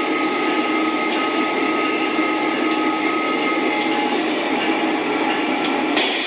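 A train running: a steady, loud, noisy rush with several steady whining tones through it, and a sudden sharp sound near the end.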